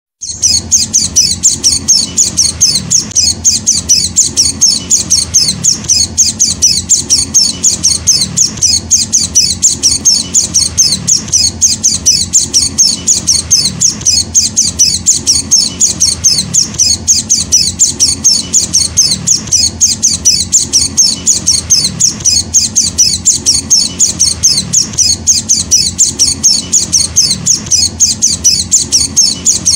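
White-eye (Zosterops) chick calling in a rapid, unbroken series of short high-pitched chips, about four to five a second.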